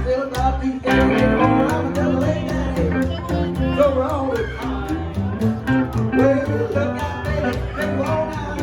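Live country band playing an instrumental stretch: a guitar lead with bending notes over bass and a steady beat.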